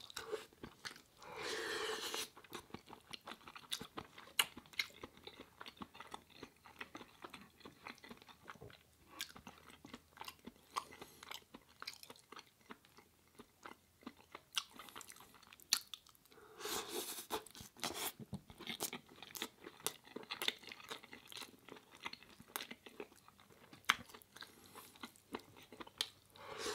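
A person chewing and eating close to the microphone: a meal of curry, onion rice and baguette. Many short mouth clicks and smacks, with two longer, louder stretches of chewing, one about a second in and one around seventeen seconds.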